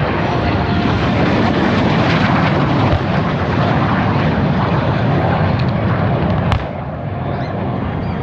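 MiG-17 jet fighter's single turbojet, loud as it makes a low pass in front of the crowd. About six and a half seconds in there is a sharp click and the noise drops a little.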